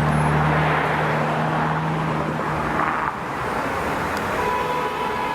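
A car engine running with a low hum that fades out about halfway through as the car pulls away, over street traffic noise. A steady pitched tone starts near the end.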